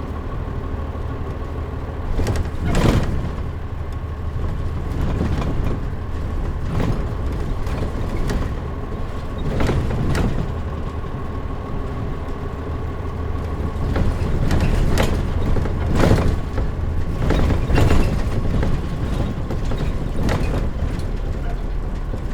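Mitsubishi Fuso KL-MP37JM city bus heard from inside the cabin, its turbodiesel engine running steadily under way. Sharp knocks and rattles of the bus body come every second or two as it rides over the road, with a faint steady whine throughout.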